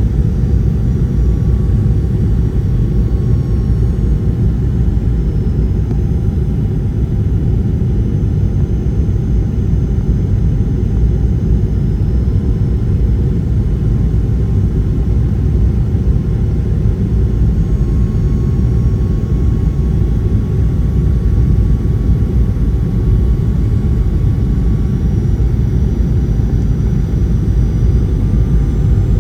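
Airliner cabin noise heard from a window seat: a steady, even rumble of jet engines and airflow, with a faint thin whine above it.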